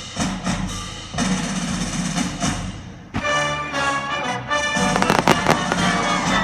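Fireworks exploding over live orchestral music: sudden loud bursts near the start, about a second in and just after three seconds, then a quick cluster of sharp cracks around five seconds in, with the orchestra's sustained chords sounding throughout.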